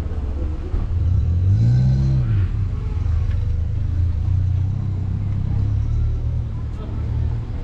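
A car engine's low rumble, rising and falling in pitch as it revs about two seconds in, then running steadily as the car pulls away up the street.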